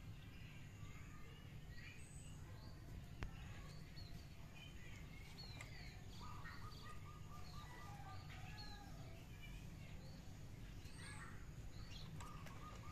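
Small birds chirping and trilling, with many short rising and falling calls and a run of quick repeated notes midway, over a steady low background rumble. One sharp click about three seconds in.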